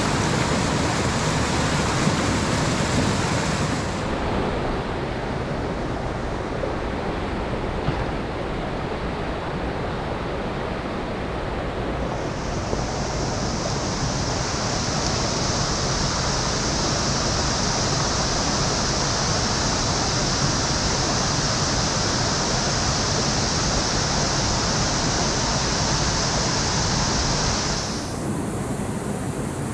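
Mountain stream water rushing steadily, its sound shifting abruptly about four seconds in and again near the end. From about twelve seconds in, a steady high hiss sits over the water until shortly before the end.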